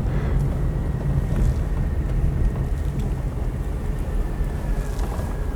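A car's engine running, heard as a steady low rumble from inside the cabin.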